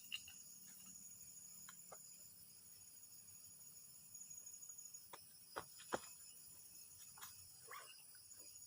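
Crickets and other insects chirring steadily at a low level, with a few faint sharp clicks; the loudest click comes about six seconds in.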